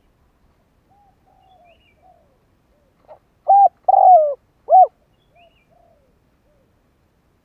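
Spotted dove cooing: a few soft coos in the first couple of seconds, then a loud phrase of three coos about three and a half seconds in, the middle one longer and falling in pitch, trailing off in softer notes.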